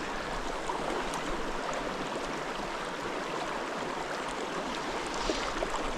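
Mountain stream water flowing with a steady, even rush.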